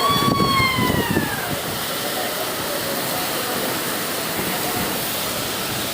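Cyclone-force wind blowing in a steady rushing noise, with a single falling, whistle-like tone fading out in the first second and a half.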